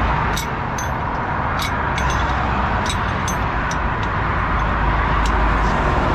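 Steady roar of passing motorway traffic, with a few sharp, irregular clicks from a socket and ratchet being worked on bolts under the truck.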